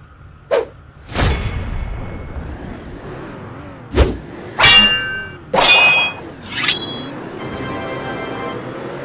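A string of comedy sound effects: a quick hit and a whoosh, then four sharp metallic clangs about a second apart, the later ones ringing on in clear tones.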